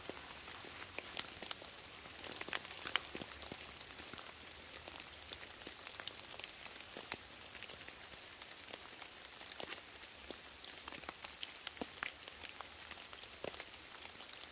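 Light rain falling on leaves and a tarp: a steady soft hiss with many scattered, irregular drop ticks, one sharper tick about two-thirds of the way through.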